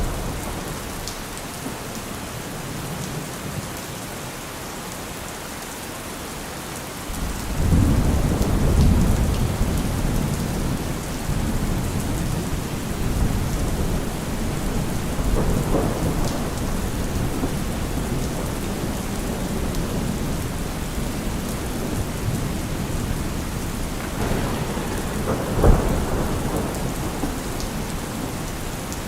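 Thunderstorm: steady heavy rain, with a low rolling thunder rumble that comes in suddenly about seven seconds in and goes on, and a short sharp crack of thunder about three-quarters of the way through.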